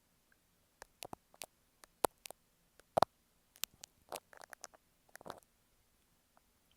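Dressmaker's pins tapping and scraping on an earphone microphone: scattered sharp ticks and clicks, with two short bursts of scratchy rustling about four and five seconds in.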